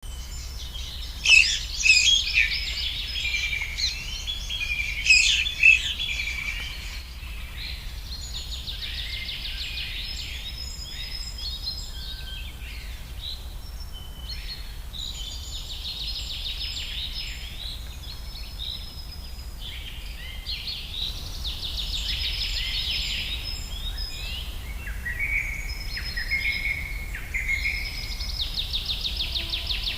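Wild songbirds singing and calling over one another, with repeated fast trills and a few loud, sharp calls in the first six seconds, over a steady low hum.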